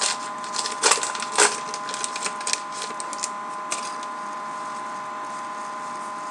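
Crinkling and crackling of a trading-card pack and cards being handled: a burst of sharp crackles in the first second and a half that thins to scattered clicks, ending about four seconds in. A steady high hum runs underneath.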